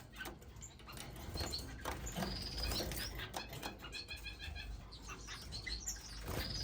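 Caged finches chirping and calling: many short high chirps, with a quick run of repeated notes about three seconds in, and some wing flutters and small clicks of birds moving about.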